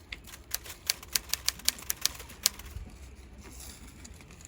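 Dry fallen leaves crunching and crackling: a quick, uneven run of about ten sharp clicks over the first two and a half seconds, then it stops.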